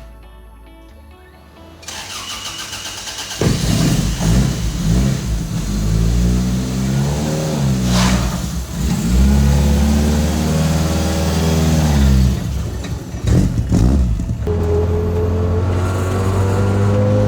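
Toyota AE86's four-cylinder engine starting, then revving up and down several times. Near the end a steady whine rises slowly in pitch over the engine note.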